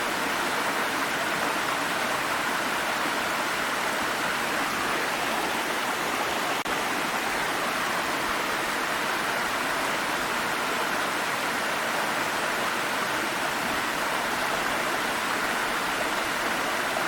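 Water stream flowing steadily, an even rushing and splashing of running water.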